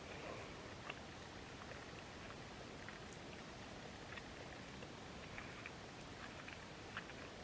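Faint chewing with scattered small mouth clicks over a steady low hiss.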